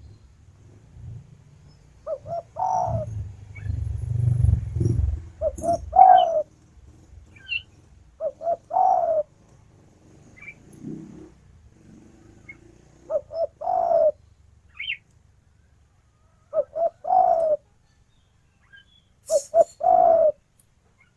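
Spotted dove (tekukur) cooing: phrases of a few short coos ending in a longer coo, repeated about six times every three to four seconds. Faint chirps of other small birds are heard between the phrases.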